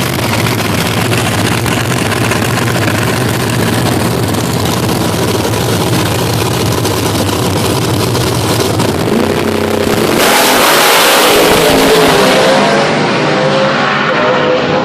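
Race car engine running at a steady low drone, then from about nine to ten seconds in revving hard and accelerating, its pitch climbing.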